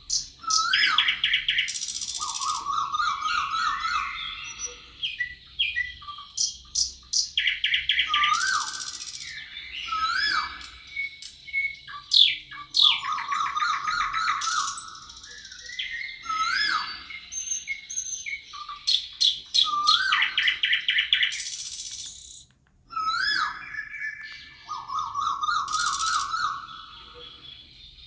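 Forest birds singing: a chorus of repeated song phrases, each a short rising whistle followed by rapid trills and buzzy high notes, returning every few seconds. There is a brief pause about three quarters of the way through.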